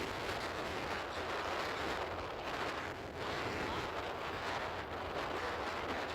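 Steady rush of wind on the microphone over a low rumble.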